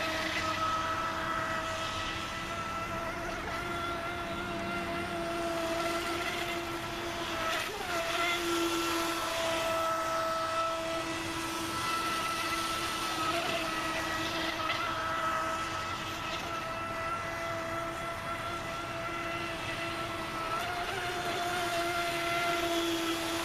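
RC model boat's brushless electric motor driving a Kyosho Dolphin outboard through a flex shaft, running at speed with a steady high-pitched whine. The pitch wobbles briefly a couple of times and shifts right at the end.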